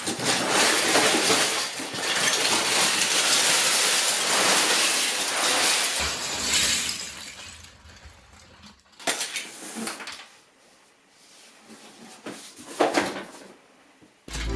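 A large mass of loose plastic LEGO bricks being poured or tipped out, a dense continuous clatter that thins out after about seven seconds into a few scattered clicks of pieces being moved.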